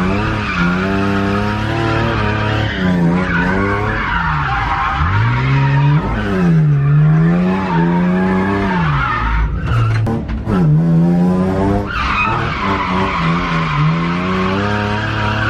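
Drift cars sliding: engines revving up and down in repeated throttle blips, with tires squealing steadily.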